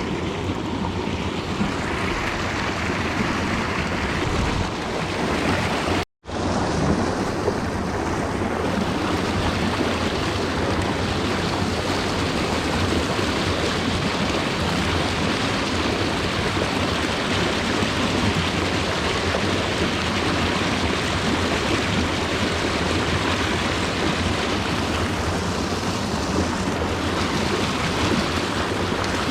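Steady rushing of a mountain stream's flowing water, cutting out completely for a moment about six seconds in.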